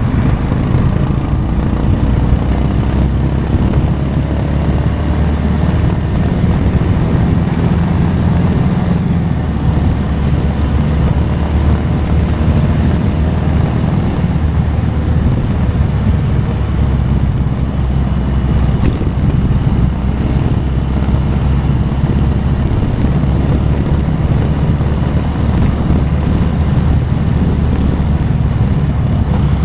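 Motorcycle engine running as the bike is ridden along a road, a steady low drone whose note shifts a few times with the throttle.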